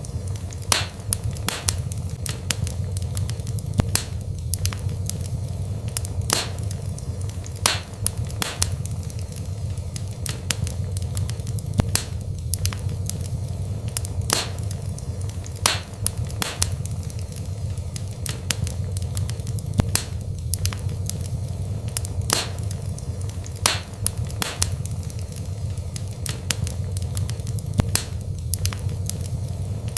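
Wood burning in a fireplace: a steady low rumble of flame, broken by frequent irregular sharp crackles and pops, about one or two a second.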